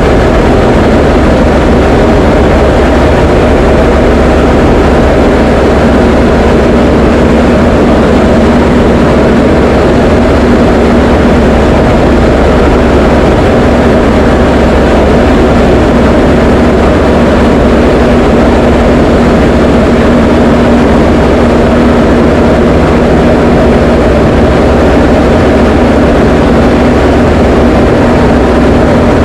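Diamond DA20 light aircraft's piston engine and propeller running steadily in flight: a loud, unchanging drone with a constant hum.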